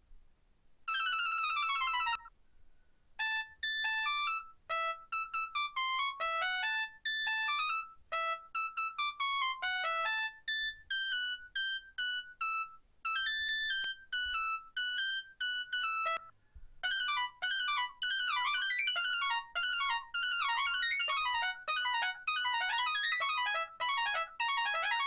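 Nokia 3590 mobile phone ringtones playing as electronic beeping tunes. A short falling sweep comes about a second in, then a tune of separate short notes. Past the middle, a faster, busier tune follows.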